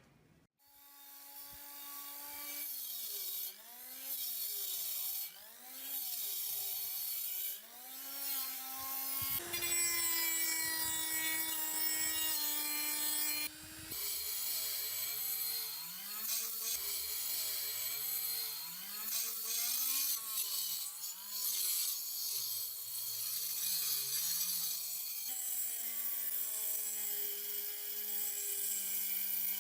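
Small electric power tool running and working metal, its motor pitch rising and falling about once a second as it is pressed onto the work and eased off, with rubbing, grinding noise over it. It stops and restarts briefly a few times.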